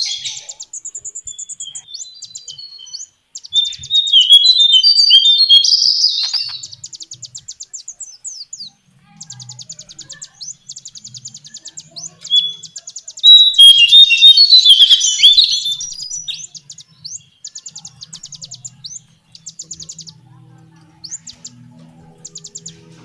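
Lesser shortwing singing: rapid runs of short, high ticking notes, broken twice by louder jumbled warbling phrases, about four seconds in and again about thirteen seconds in.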